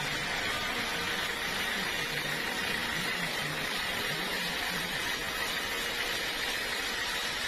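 Sawmill machinery running with a steady, constant noise that does not rise or fall.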